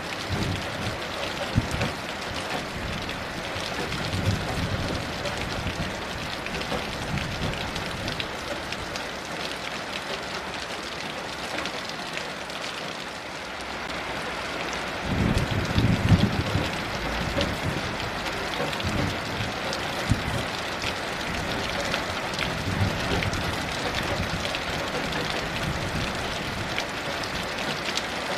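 Heavy rain falling steadily, with sharp drop patters, and low rumbles of distant thunder, the strongest about halfway through.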